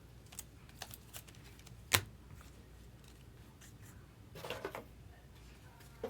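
Trading cards and their packaging handled on a table: a few light clicks and taps, a sharper click about two seconds in, and a short rustle around four and a half seconds.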